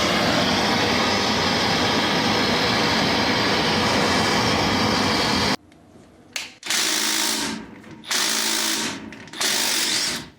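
A power tool runs steadily for about five and a half seconds, then in three short bursts, working on a seized ball joint on a Suzuki Samurai's front steering knuckle.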